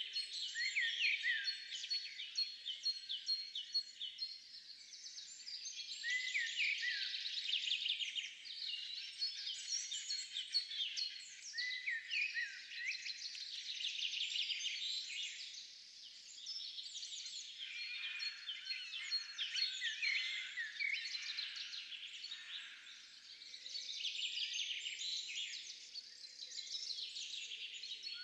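Many small birds chirping and twittering at once in a dense, continuous chorus that swells and dips every few seconds.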